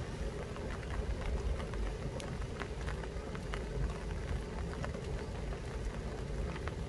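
Steady rain falling on the leaves of an apple tree, with scattered sharp ticks of single drops over an even hiss.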